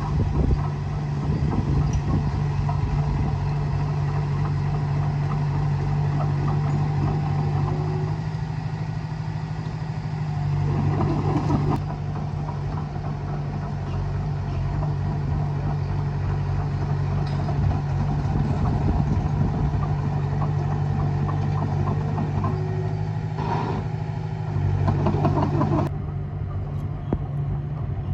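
Diesel engine of a Komatsu D20A crawler bulldozer running steadily under work, with two short, louder, rougher stretches, about ten seconds in and again near the end.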